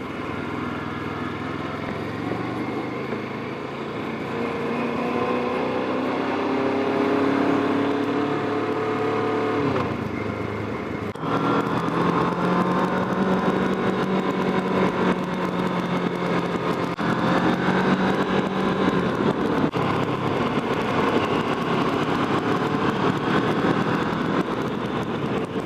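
Motorcycle engine under way, its pitch rising as it accelerates; after a sudden break about eleven seconds in, it holds a steady pitch at cruising speed, with wind rush over it.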